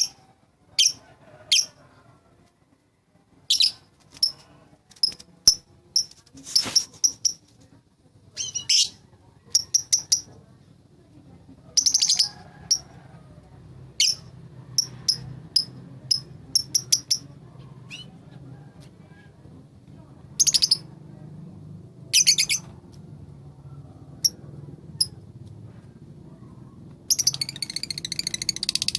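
Lovebird giving sharp, high chirps one after another at irregular intervals, with a longer rattling chatter near the end.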